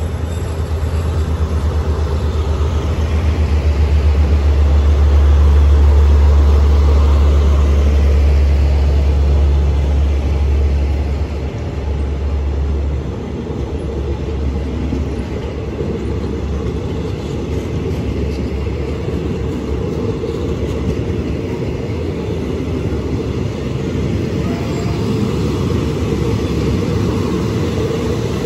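Diesel-hauled passenger train pulling out of the station and passing close by. A low locomotive rumble builds to its loudest a few seconds in and fades after about twelve seconds, then the coaches keep rolling past steadily.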